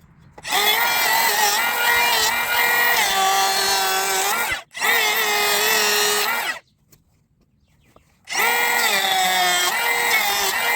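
Makita XGT 40-volt cordless hand planer running in passes while planing a pressure-treated 4x4: a loud high motor whine with a hiss over it, its pitch dipping and recovering. It starts about half a second in, cuts out briefly just before the five-second mark, goes quiet for about a second and a half near the seven-second mark, then runs again.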